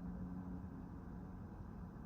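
A low, steady engine rumble with a steady hum.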